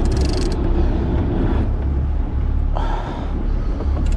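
Sport-fishing boat's engine running steadily with a low drone, under the wash of water along the hull. A short burst of rapid ticking comes right at the start.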